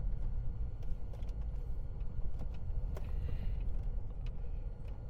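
Strong wind buffeting the microphone: a steady low rumble with a few faint clicks.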